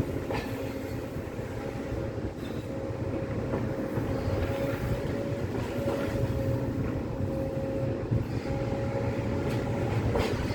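Demolition excavator running steadily: a low diesel engine rumble under a constant high hydraulic whine, with a few faint knocks.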